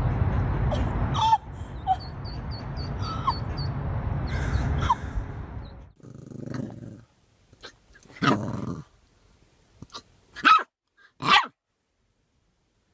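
A dog barking, three short sharp barks in the second half, after a stretch of steady background noise with faint high chirps.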